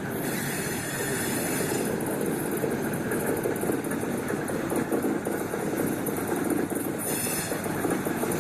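Train running on the rails with a steady rumble, with brief high wheel squeals near the start and again about seven seconds in.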